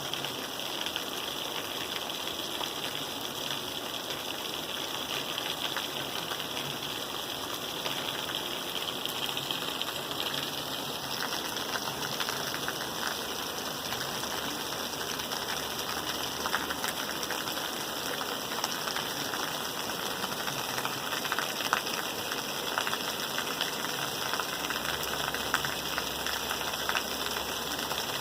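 Steady rain falling, an even hiss dotted with many small drop ticks, with a few sharper drop hits in the second half.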